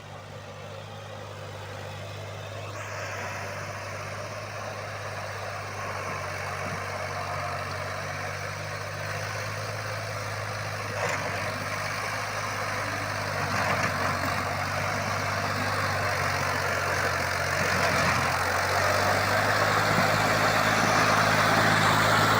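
Heavy machinery engine running steadily with a low hum, growing gradually louder as a broad rushing noise builds over it.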